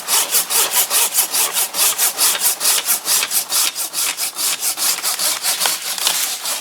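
Large Silky Katana Boy 500 saw blade cutting through a green tree branch in rapid, even rasping strokes.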